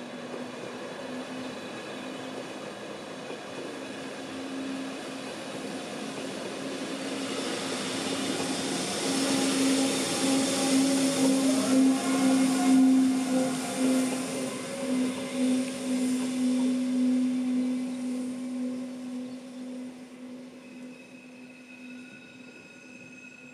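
Rhaetian Railway metre-gauge passenger train running past and pulling away. Its wheels rumble on the rails under a steady electric hum that grows loudest about halfway through, as the locomotive at the rear goes by, then fades into the distance.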